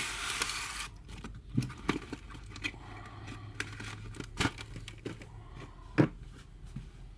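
Packing material rustling and crinkling for about a second, then scattered light knocks and taps as items are handled, the sharpest about six seconds in.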